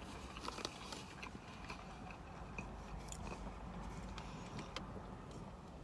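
Quiet chewing with small wet mouth clicks as a crispy panko-breaded fish sandwich is eaten, and a sip through a drinking straw about four seconds in.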